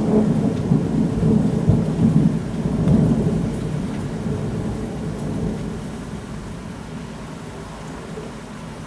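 Thunder rumbling over steady rain, the rumble dying away over the first five seconds while the rain goes on.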